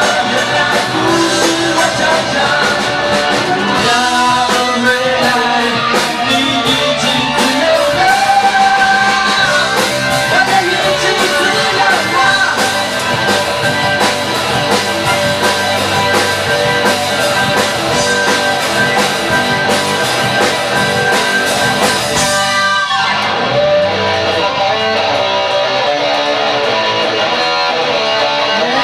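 Live rock band playing, electric guitar over a drum kit with cymbals. About 22 seconds in, a falling sweep is followed by the cymbals dropping out, and the guitars play on.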